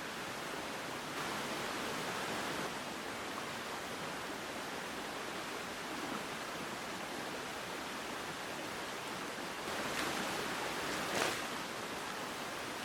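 Steady hiss of rain falling, with a short sharp tap near the end.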